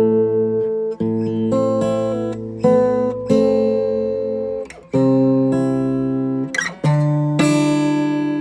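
Background music: acoustic guitar playing slow chords, each struck and left to ring and fade before the next, about every second or two.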